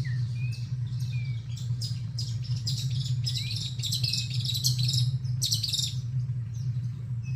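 Wild birds chirping and calling: many quick high chirps, busiest in the middle, with a few short whistled notes, over a steady low hum.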